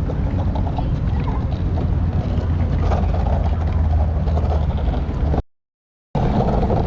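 Steady low rumble of longboard wheels rolling on pavement, with wind on the microphone. It cuts out into silence for under a second about five and a half seconds in, then resumes.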